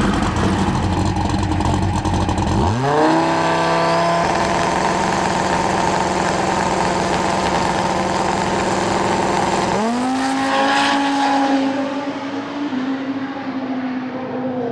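Drag racing car engines running at high rpm. The pitch sweeps sharply upward about three seconds in and holds steady, then sweeps up again about ten seconds in.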